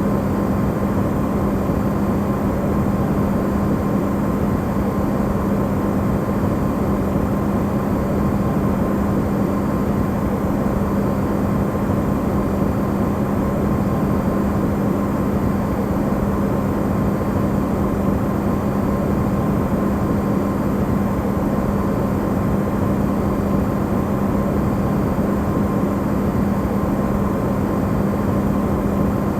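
Electrolux refrigerator running, recorded amplified as white noise: a steady low hum with a fainter higher whine over an even rushing noise, unchanging throughout.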